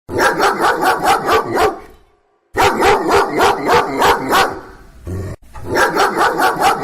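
A dog barking rapidly in three quick runs of about five barks a second, each run lasting about two seconds, with short gaps between them.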